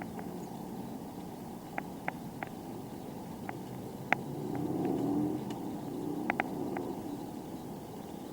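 Steady rolling noise of a bicycle ride, tyre and wind rumble, with scattered sharp clicks and ticks from the bike at irregular moments. A low rumble swells about four seconds in and fades again a couple of seconds later.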